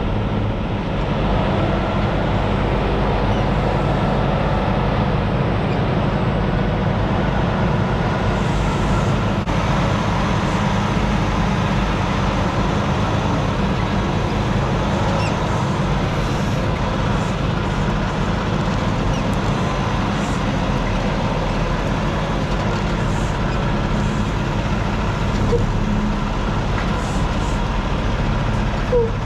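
Peterbilt 579 semi truck's diesel engine running steadily, with a small click near the end.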